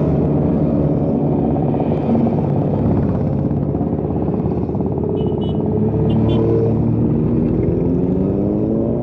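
Several motorcycles riding past in a group, their engines running together, with engines revving up and pitch rising in the second half.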